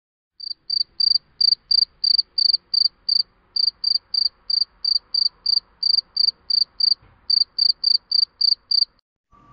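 Cricket chirping: an even series of short, high-pitched chirps, about three a second, broken by two brief pauses.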